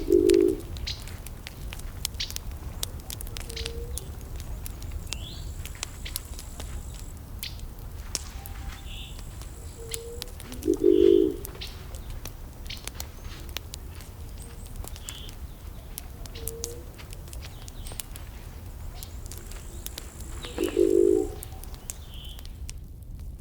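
Wood fire crackling and popping steadily over a low rumble. A bird gives a short, low call three times, about ten seconds apart, and fainter higher chirps come in between.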